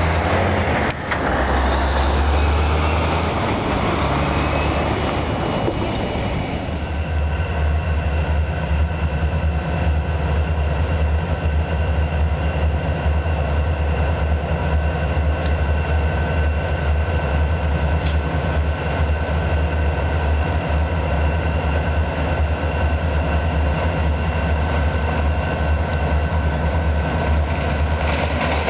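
Freight cars rolling on the rails for the first several seconds, with wheel noise and clicks. About six seconds in this gives way to a freight diesel locomotive's engine running steadily with a low rumble and a steady whine, as it moves slowly at the head of its train.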